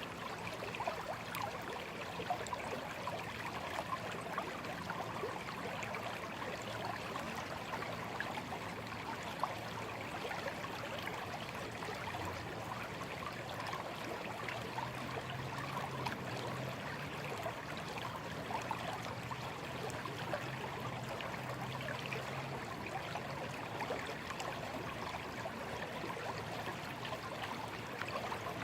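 Shallow stream babbling and trickling steadily, an even wash of small splashes. A faint low hum rises under it for several seconds in the middle.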